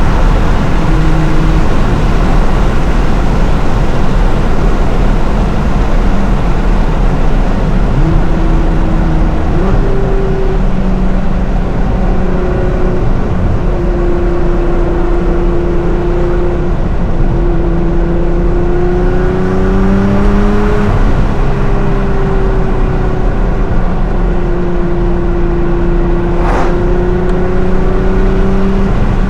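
Nissan R35 GT-R's twin-turbo 3.8-litre V6, tuned to about 750 hp, running at a steady cruise under a constant rumble of exhaust and road noise. The engine note rises gently and falls several times, with one longer climb about two-thirds of the way through that drops back suddenly.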